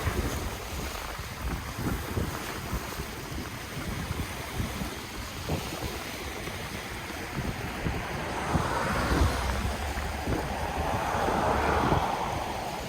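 Ocean waves washing in on the shore, with wind buffeting the microphone as low rumble; a wave swells and breaks louder a little past halfway, peaking near the end before easing off.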